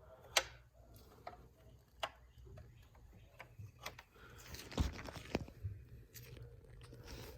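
Scattered clicks and light knocks of hand work with tools and parts, with a crunching rustle about four to five seconds in, over a low steady hum.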